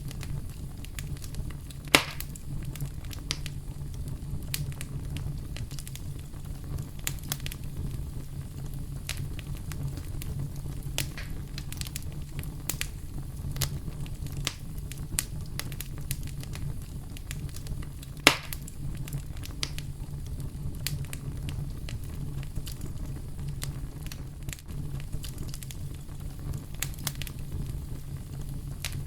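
Campfire crackling, with many small scattered pops and two louder snaps, one a couple of seconds in and one a little past the middle, over a steady low rumble of brown noise.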